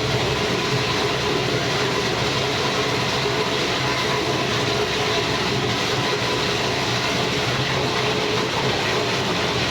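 Electric-motor-driven meat grinder for meatball meat running steadily, a constant mechanical hum and rumble with no change in speed.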